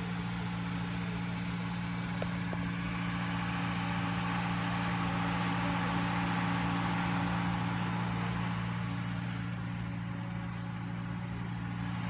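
An engine running steadily: an even low hum with a hiss over it that swells a little in the middle.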